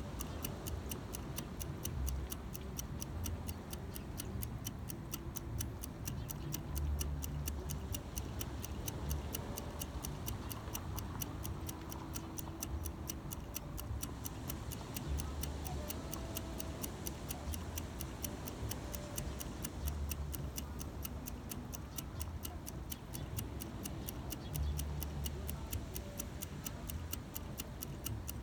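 Steady, rapid ticking, about three ticks a second, over a low rumble that swells and fades.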